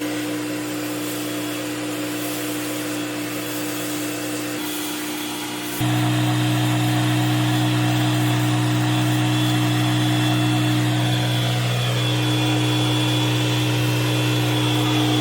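Pressure washer running, a steady motor-and-pump hum under the hiss of the water spray. It gets louder suddenly about six seconds in and holds at that level.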